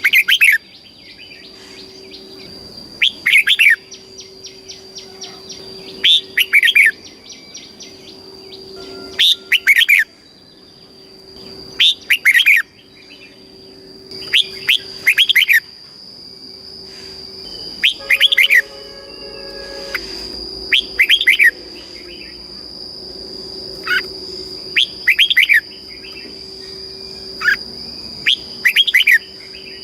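Red-whiskered bulbul singing: short, loud, clear whistled phrases of a few notes each, repeated about every three seconds.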